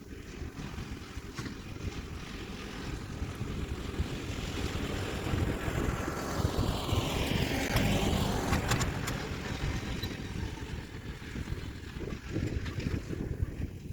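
Kioti DK4710SE diesel tractor running as it pulls a landscape rake, growing louder to a peak about eight seconds in as it passes close by, then fading away.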